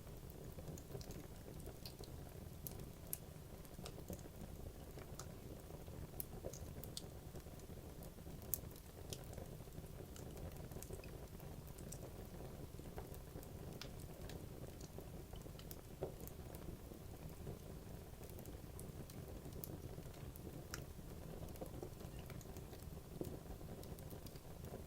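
Wood logs burning in a fireplace: a steady low rush of flame with irregular sharp crackles and pops from the wood.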